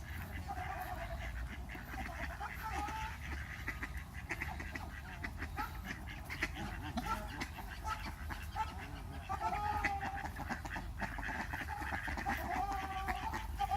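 A crowd of birds calling all at once, many short overlapping calls and squawks.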